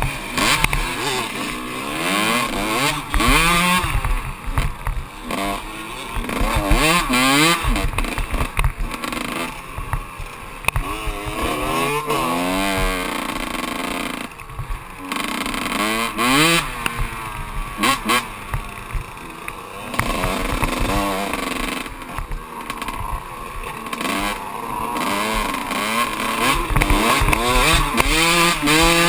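Kawasaki KX125 single-cylinder two-stroke dirt bike engine under hard riding. The pitch climbs again and again and drops sharply as the rider shifts and rolls off the throttle.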